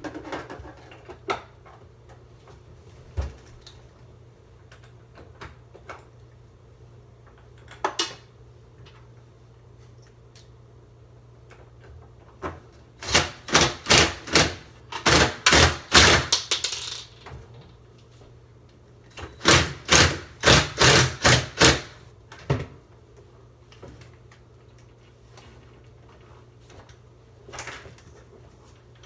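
Hinge screws being driven into a refrigerator's door hinge with a tool: two bursts of rapid, even clicking about four a second, each a few seconds long, in the second half, with a few scattered knocks from handling the door before them.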